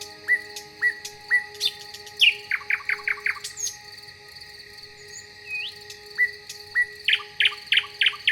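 Songbirds chirping outdoors. Short rising chirps repeat about every half second, broken twice by a fast run of quick descending notes.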